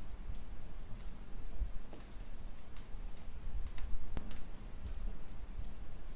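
Wood logs burning in a fireplace, crackling with irregular sharp pops over a low, steady rumble.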